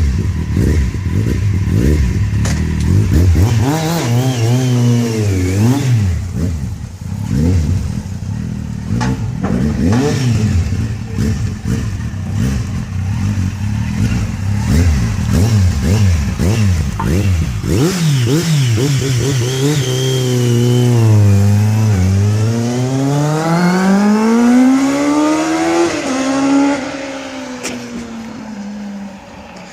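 Kawasaki Z750 inline-four motorcycle engine through a Scorpion carbon-fibre exhaust with the dB killer removed, revved in many quick blips, then a longer, slower rev climbing to a peak before dropping back and settling quieter near the end.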